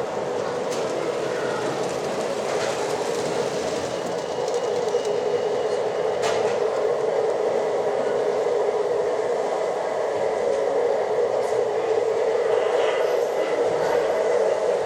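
H0-scale model train running on the layout's track, a steady whirring hum with a few faint clicks, getting a little louder about five seconds in.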